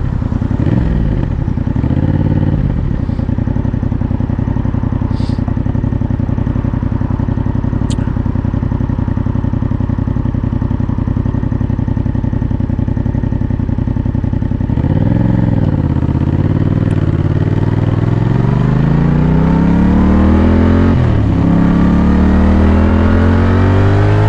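Yamaha MT-07 parallel-twin engine idling steadily for about fifteen seconds, then pulling away. Its note climbs as it accelerates, drops at a gear change, and climbs again.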